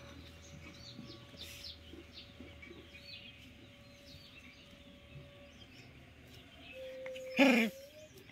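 Small birds chirping repeatedly in the background, with a faint steady tone through the first six seconds and one short, loud sound about seven and a half seconds in.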